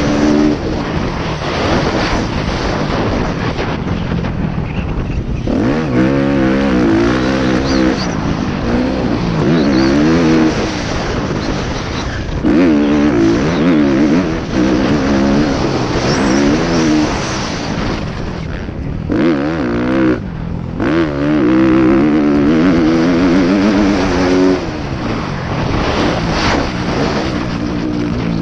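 Motocross bike engine being ridden hard, its pitch climbing and dropping again and again as the throttle opens and shuts through the gears, with a couple of short throttle cuts about two-thirds of the way in.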